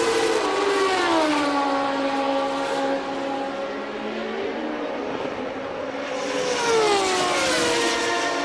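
1989 Formula One cars' engines running at high revs. The pitch falls smoothly twice, about a second in and again near the seventh second, and holds steady between the falls.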